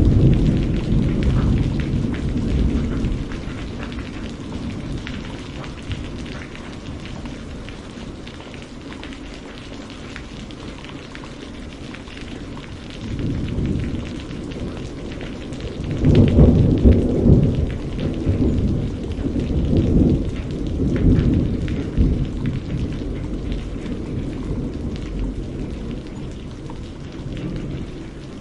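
Steady rain hissing, with rolling thunder rumbling beneath it. A low rumble fades out over the first few seconds. Another builds about halfway through and rolls on in several swells before trailing off.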